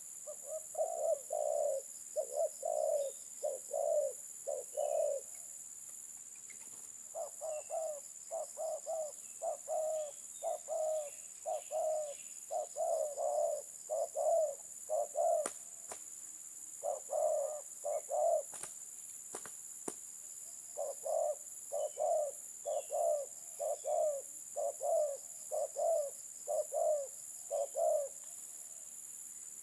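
Spotted dove cooing: runs of repeated low coos, pausing briefly about 5 s in, again around 15 s and near 19 s, then resuming. A few sharp clicks fall in the middle pause.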